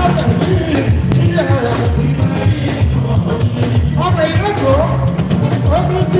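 Live Fuji band music: a singer's voice over a steady, rhythmic percussion and bass groove.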